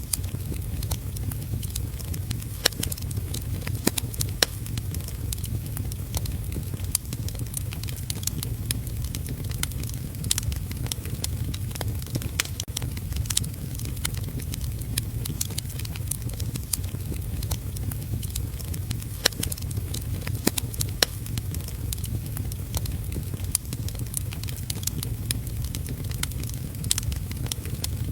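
Wood fire crackling with frequent sharp pops, over a steady low rumble and the hiss of heavy rain.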